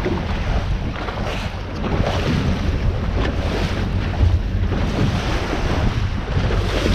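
Wind buffeting the microphone on an open boat at sea, over a steady low hum from the boat and the wash of water.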